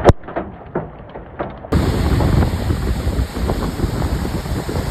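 Storm noise from a phone-style recording: a steady rush of wind buffeting the microphone, starting abruptly about a second and a half in, after a quieter stretch with a few scattered knocks.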